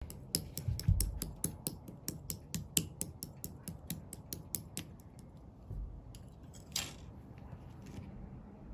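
Rapid mechanical clicking, about five sharp clicks a second, stopping about five seconds in, followed by a few scattered clicks and a brief rasp near seven seconds.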